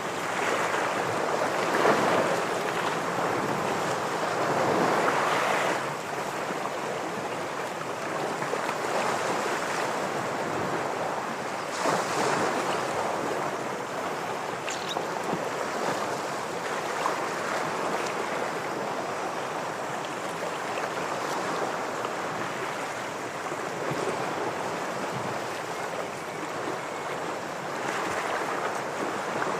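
Sea waves washing against shoreline rocks: a continuous rushing wash that swells and falls, with the strongest surges about two and five seconds in and a sharper splash near the middle.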